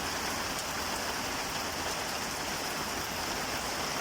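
Steady rain falling on surfaces, an even hiss with no thunder.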